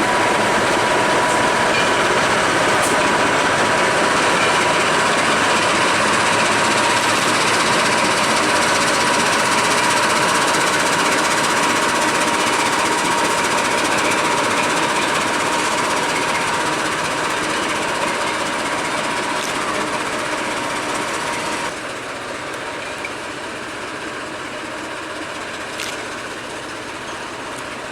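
Heritage train running on the line: a steady rattling rumble with a steady high tone over it. It eases off from about two-thirds of the way through, then drops suddenly a few seconds before the end, where the tone stops.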